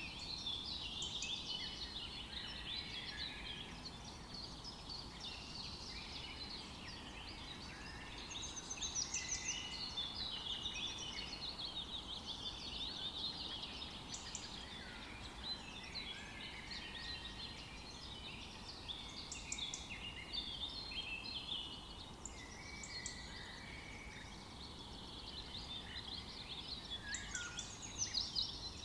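Forest ambience: several songbirds singing and chirping at once, a steady chorus of overlapping trills and short calls, over a faint steady background hiss.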